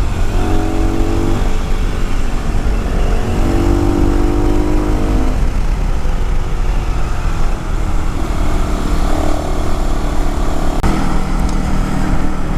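Yamaha WR250R's 250 cc single-cylinder four-stroke engine running under way, with a steady low rumble of wind and road noise. The engine's tone holds at one pitch for a few seconds at a time and changes pitch a few times.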